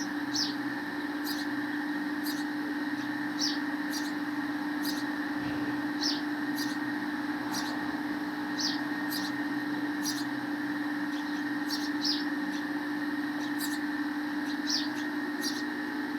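Sparrow chirping: short, high, single chirps repeated about once every second, over a steady low hum.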